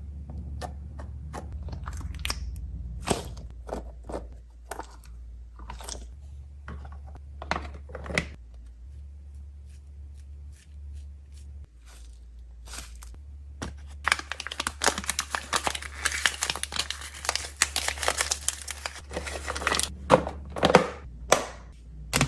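Packaging being handled: scattered small crinkles and taps, then about five seconds of continuous crinkling and tearing of a wrapper about two-thirds of the way through, and a few sharp clacks near the end.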